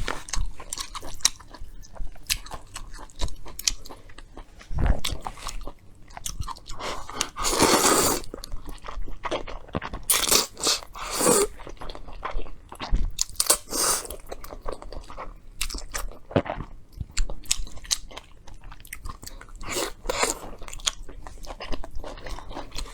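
A person chewing and biting food close to the microphone, with crunching and many short mouth clicks, and a few longer louder noisy stretches.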